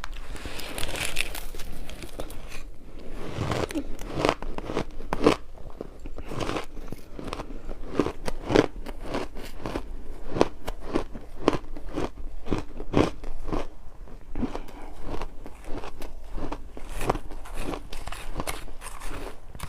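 Ice being bitten and crunched between the teeth close to the microphone: a rapid, irregular run of sharp cracks, several a second.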